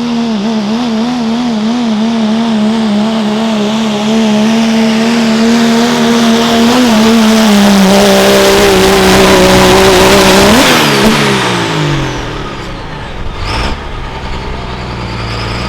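Diesel pickup engine at full throttle pulling a sled, its note wavering at first and then dropping a little as it loads up. About two-thirds through the throttle comes off and the revs fall away with a falling turbo whine, settling to a lower idle.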